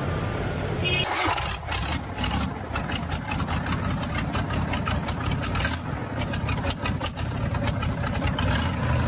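A vehicle engine running, with many irregular clicks and knocks over it after about a second.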